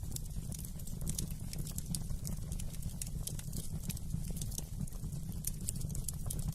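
Wood fire in a fireplace crackling, with many small irregular pops and snaps over a steady low rumble of the flames.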